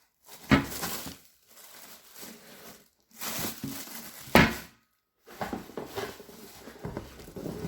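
Unboxed water heater and its packaging being handled: crinkling and rustling with a couple of sharp knocks, one about half a second in and a louder one a little past the middle.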